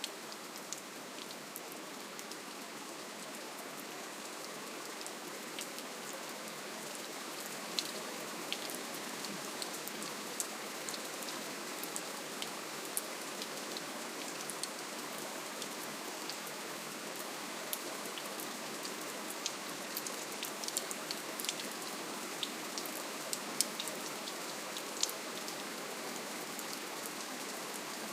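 Steady rain falling, a soft even hiss with many sharp drops tapping close by, the drops more frequent after the first several seconds.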